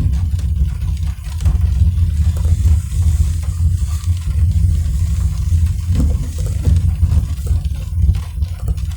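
Car driving in the rain: a steady, loud low rumble of road and engine noise, with faint hiss and scattered ticks of rain hitting the car.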